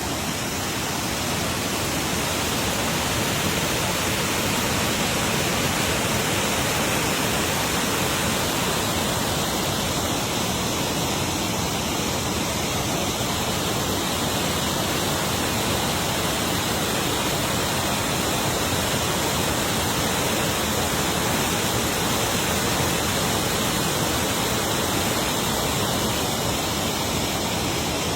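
Waterfall pouring in a steady, even rush of water noise.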